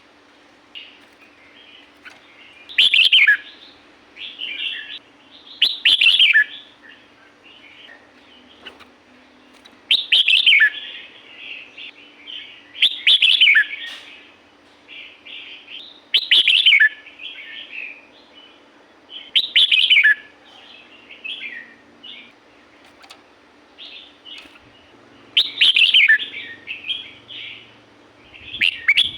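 Red-whiskered bulbul singing: short, loud whistled phrases that fall in pitch, each trailing into quick chattering notes, repeated about every three seconds.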